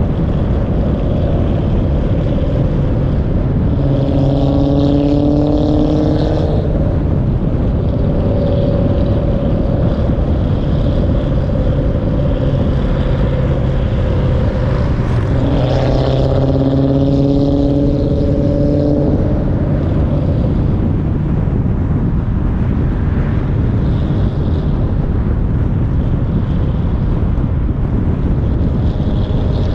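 Dodge Challenger Hemi V8 running at cruising speed under heavy wind rush on a car-mounted microphone. The engine note grows much stronger twice, about four and sixteen seconds in, for a few seconds each as it pulls harder.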